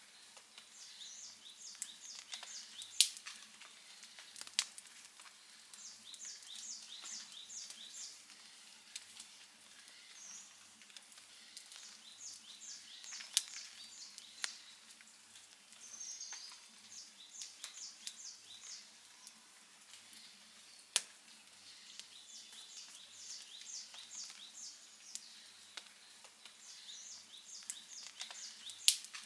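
Wood campfire crackling softly, with a few sharp pops, the loudest about 3 s in and near the end. Over it, short runs of quick high chirps repeat every second or two.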